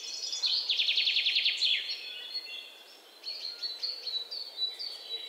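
Birds singing: a loud, fast trill of high notes from about half a second in, lasting about a second, then scattered chirps and twitters over a faint steady hiss.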